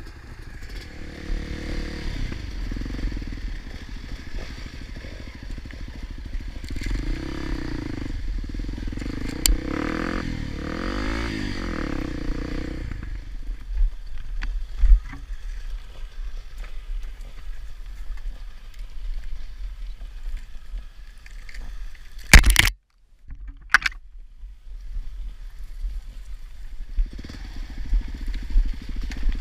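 Honda Tornado 250 single-cylinder four-stroke trail bike engine revving up and down while riding off-road, over a steady low rumble of wind on the camera microphone. About two-thirds of the way in the engine falls quieter, then a sharp loud knock is followed by a moment of silence before the engine is heard again.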